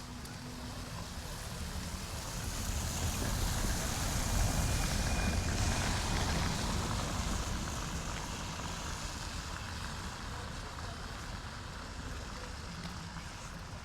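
A motor vehicle passing by on the street, its engine and tyre noise swelling to a peak about halfway through and then fading away.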